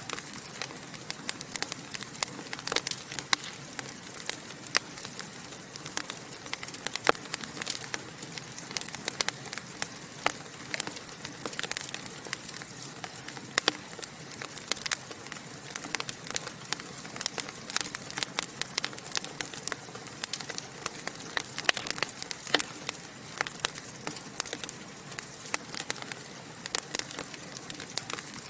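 Fire in a fireplace crackling and popping: irregular sharp pops, several a second, over a steady hiss.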